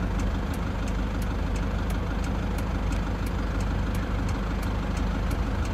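Toyota Land Cruiser Prado engine idling steadily, with faint light ticks repeating about three times a second over the rumble.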